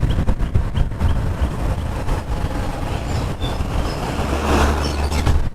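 Loud low rumble of a running vehicle, with a few sharp cracks in the first second and a steadier low hum near the end.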